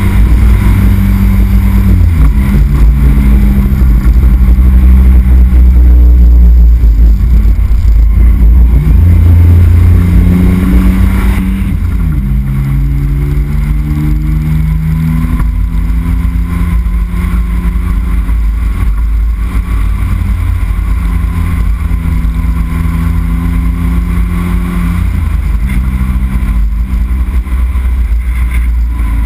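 Turbocharged Renault Sandero 1.6 16v four-cylinder engine with a straight-through exhaust, running hard under load. Its pitch holds steady and then jumps or drops several times as the gears change. It is a little louder in the first dozen seconds.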